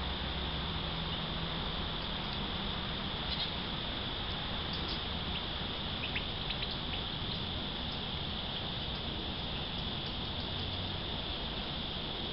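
Backyard ambience at a bird feeder: a steady high-pitched insect drone, with a few short, faint bird chirps around the middle.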